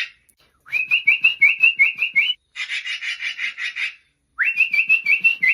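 Human whistled imitation of a black-billed magpie: two rising whistles broken into quick pitch wobbles, with a harsh, rapid, rasping chatter between them.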